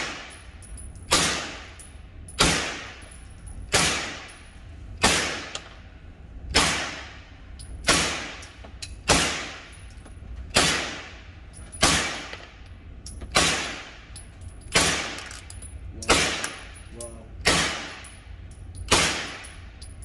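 Slow, evenly paced gunshots from a 9mm carbine, about one every second and a third, some fifteen in all, each followed by a short echoing decay.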